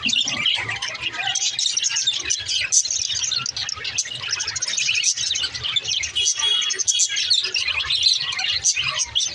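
Budgerigars chirping and warbling: a dense, unbroken chatter of quick, overlapping chirps.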